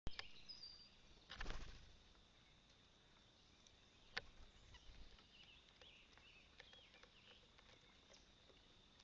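Faint outdoor ambience at a bird feeder under a steady high tone, with a few soft bird chirps past the middle. A brief rustle comes about a second and a half in, and a sharp tick at about four seconds.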